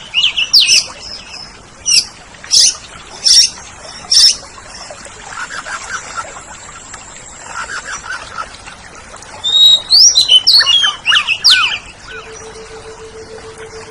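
Oriental magpie-robin (kacer) singing: loud whistled phrases and sharp notes about a second apart in the first few seconds, softer chatter in the middle, then another loud burst of song about ten seconds in. A steady low hum comes in near the end.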